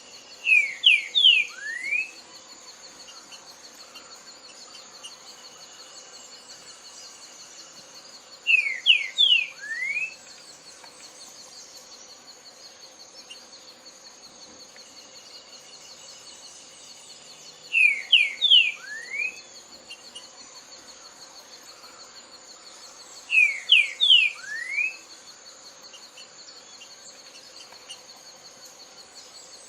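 A songbird singing the same short phrase four times, several seconds apart: three quick falling notes and then a rising one. Behind it runs a steady high insect trill.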